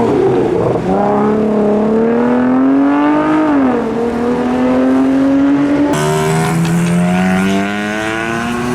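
Car engines accelerating past: one engine revs up, drops in pitch at a gear change about three and a half seconds in, then pulls again. A second car's engine comes in about six seconds in, also rising in pitch.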